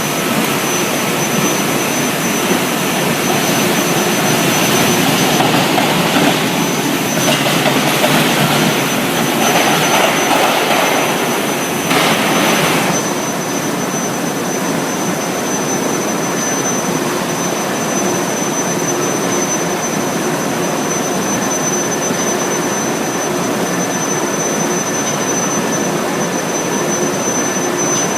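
Induction heating furnace running: a steady rushing noise with a thin high-pitched whine. It grows louder for several seconds and drops back suddenly about 13 seconds in.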